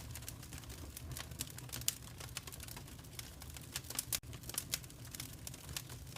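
Wood fire crackling in a fireplace: a dense run of irregular sharp pops and snaps over a low steady rumble.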